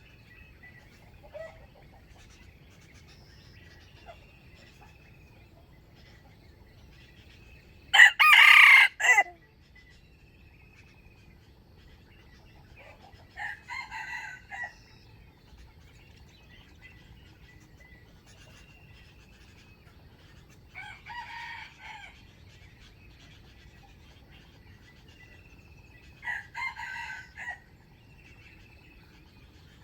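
Wild junglefowl roosters crowing: one loud, close crow about eight seconds in, then three fainter crows several seconds apart. Faint short chirps of another bird repeat in between.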